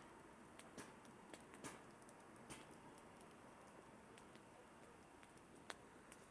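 Campfire burning, the wood giving off soft irregular crackles and a few sharper pops over a faint hiss.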